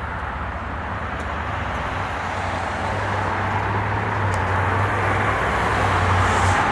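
Diesel locomotive, a GE ES44AC running as a light engine, drawing closer. A low, steady engine drone and general rumble grow gradually louder.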